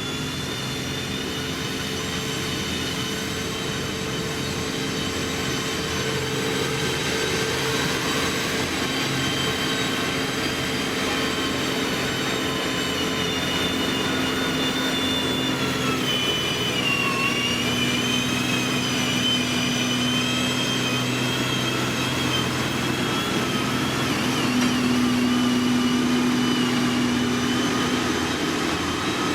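Diesel engines of heavy road-building machinery running steadily at work, with a high whine over the engine drone that dips in pitch about 16 seconds in.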